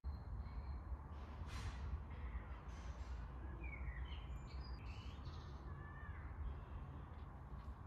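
Birds calling outdoors: a few harsh calls and short chirps over a steady low rumble.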